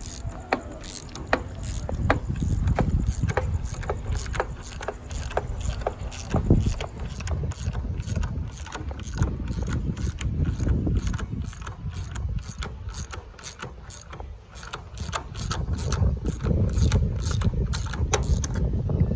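Ratchet wrench clicking in a steady run of about two or three clicks a second as it turns the forcing screw of a gear puller, drawing a tight A/C compressor pulley wheel off its shaft, with low rumbling handling noise underneath.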